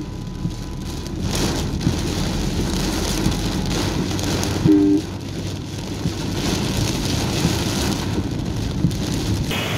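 Heavy rain falling on a car's windscreen and body, heard from inside the moving car with its low road rumble underneath. A short two-tone horn beep sounds about halfway through.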